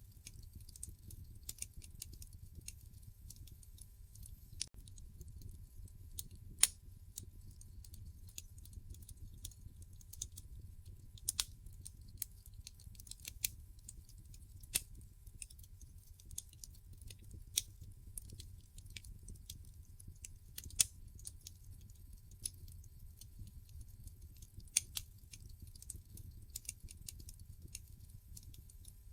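Wood fire burning in a fireplace, crackling with irregular sharp pops a second or few apart over a low steady rumble of the flames.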